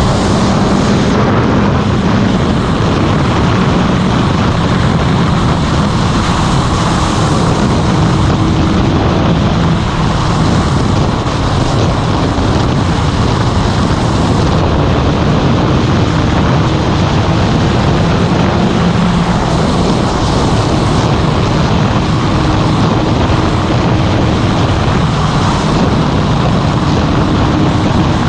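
Motorcycle running at a steady cruising speed, its engine note faint beneath heavy wind rush on the microphone.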